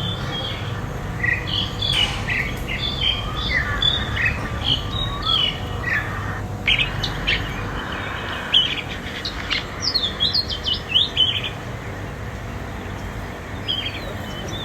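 Small birds chirping, with many quick high chirps and short trills in rapid succession that thin out to a few scattered chirps after about eleven seconds.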